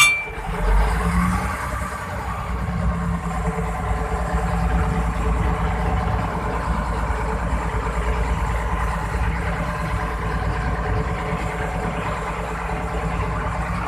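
An engine running steadily, a low even rumble that comes in about a second in.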